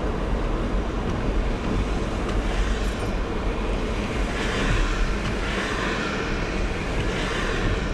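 Car driving on a slushy road: a steady low rumble of engine and tyres, with the hiss of tyres through wet slush growing louder about halfway through.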